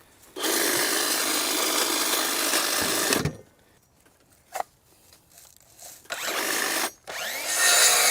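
Power saw cutting through branches in runs: one of about three seconds, then two shorter runs near the end.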